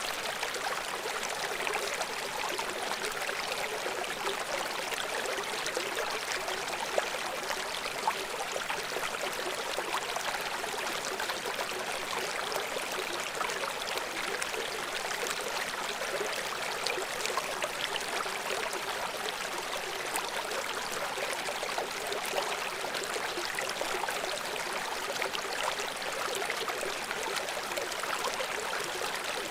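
River water flowing and splashing steadily, a continuous rushing hiss with little low rumble.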